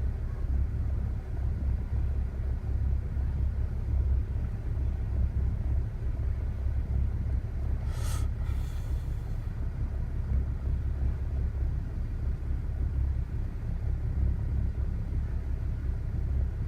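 BMW E60 535i's twin-turbo straight-six idling roughly, a low uneven rumble that wavers in loudness. A brief hiss comes in about eight seconds in.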